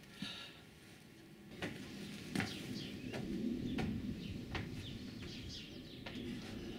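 Birds chirping, with a few sharp knocks a little under a second apart.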